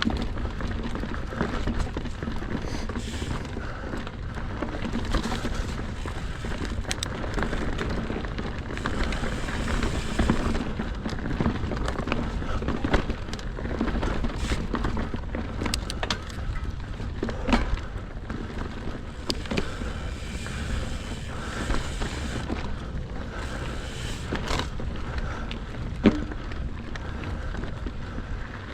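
Mountain bike rolling over a frozen dirt trail: a rough tyre rumble with the bike rattling and many small clicks and knocks, and low wind buffeting on the action-camera microphone. One sharper knock near the end.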